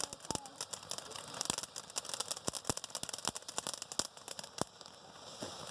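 Small fountain firework sputtering with irregular, sharp crackles and pops, several a second.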